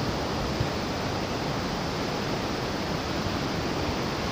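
Steady rushing noise of ocean surf, an even roar with no distinct breaks or separate events.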